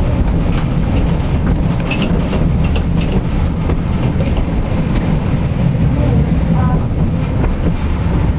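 Tram running along its track with a steady low rumble, and a few short clicks and squeaks from the wheels and rails, most of them about two to three seconds in.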